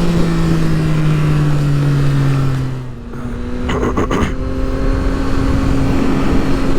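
Yamaha MT-09's three-cylinder engine under way with wind rush: the engine note falls slowly, dips and drops out about three seconds in with a few quick pops, then holds a steady, higher note.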